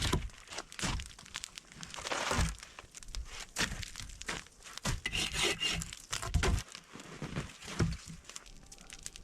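Tree limbs being handled and piled: irregular rustling and crunching with scattered cracks and dull thuds of wood.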